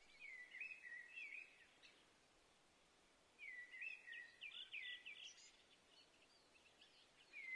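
A songbird singing short warbling phrases, each about two seconds long, with pauses of a second or two between them; fainter notes trail after the second phrase, and another phrase begins at the end.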